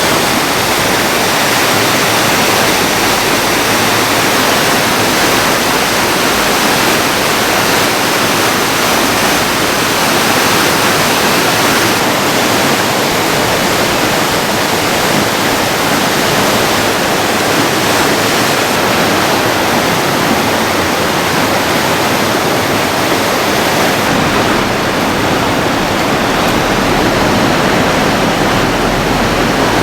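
Rushing water, a steady loud torrent of noise that does not let up, such as a river or stream in spate after a storm.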